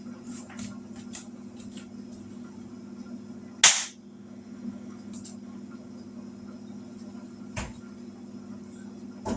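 Kitchenware knocking: one loud sharp clack of a utensil or dish a little over a third of the way in, with lighter clinks before it and two softer knocks later, over a steady low hum.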